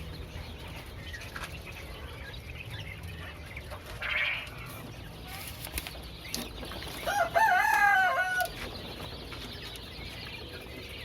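A fowl crowing once, a wavering call about a second and a half long a little past the middle, over a steady low hum.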